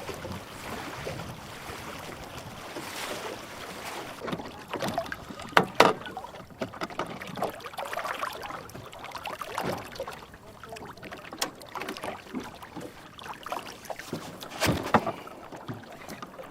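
Water splashing and sloshing around a small plywood dinghy, with irregular knocks and clatters against the hull; the loudest knocks come about six seconds in and again near the end.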